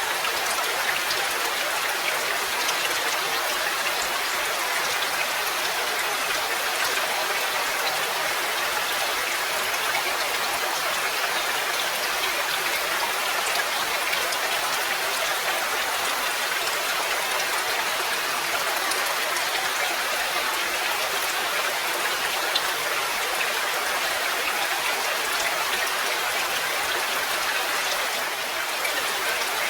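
Steady rain: a dense, even hiss of falling rain with scattered individual drop ticks, running without a break.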